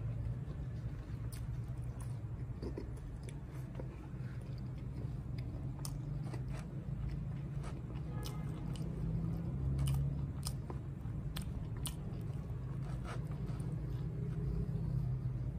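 Close-miked chewing and biting of a person eating mutton liver curry with flatbread, with scattered sharp clicks that bunch up between about six and eleven seconds in, over a steady low rumble.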